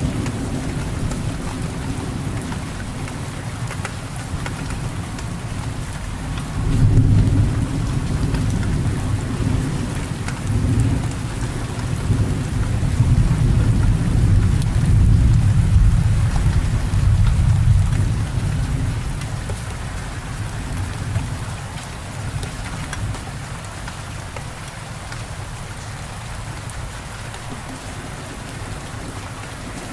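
Steady rain falling, with a low thunder rumble that swells about seven seconds in and rolls on again from about eleven to eighteen seconds.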